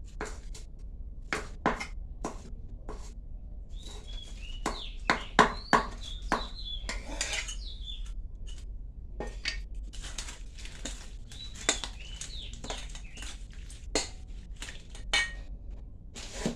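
Irregular clinks and knocks of utensils against dishes and bowls while food is prepared, with birds chirping at times in the middle.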